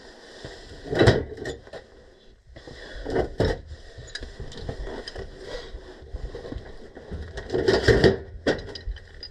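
Hands and tools working on a furnace gas valve, with irregular knocks and clatters of metal parts being handled. The loudest knocks come about a second in, around three seconds in and near eight seconds.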